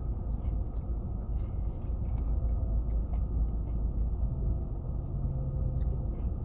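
Steady low rumble of a car heard from inside the cabin of a 2017 Ford Fusion, with a low steady hum for a second or two past the middle and a few faint clicks.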